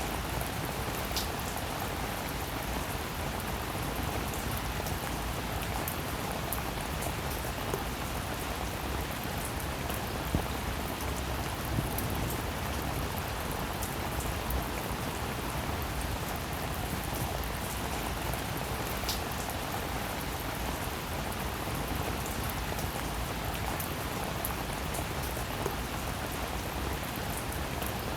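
Steady rainfall, an even hiss with a few sharper drop ticks now and then.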